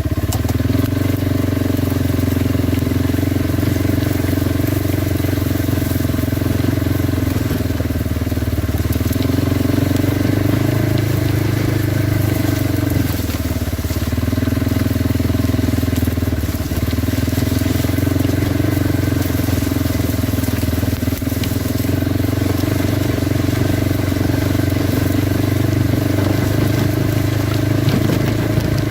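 Kawasaki Brute Force 300 ATV's single-cylinder four-stroke engine running at a fairly steady speed while riding, its pitch easing briefly a few times.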